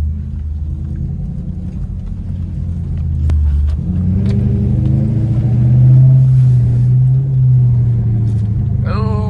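Lexus GS430's 4.3-litre V8 running without catalytic converters, a steady low rumble at first. About four seconds in it rises in pitch and gets louder as the car accelerates, then holds there.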